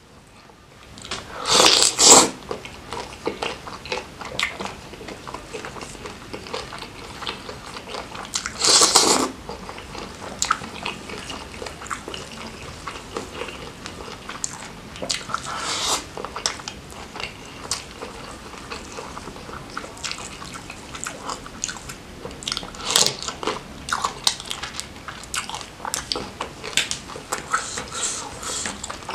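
Close-miked eating: biting into and chewing jumbo shrimp coated in Padang sauce, with two loud bites about two seconds in and about nine seconds in, and smaller crunches and chewing clicks throughout.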